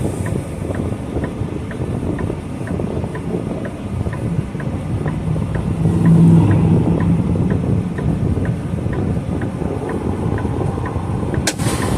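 Semi truck's diesel engine running, heard from inside the cab, under a fast regular ticking of about three clicks a second. The engine swells briefly about halfway through, and a short burst of hiss comes near the end.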